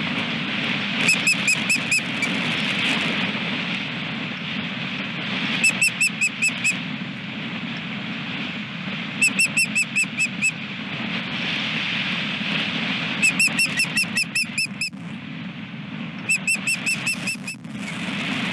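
Osprey calling in five bouts of short, high whistled chirps, each bout a quick run of about six to ten notes, over steady wind noise.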